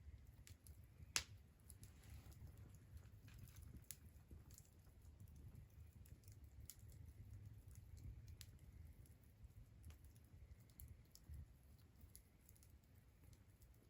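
Wood fire crackling: scattered small pops and ticks, with one sharp loud pop about a second in, over a faint low rumble.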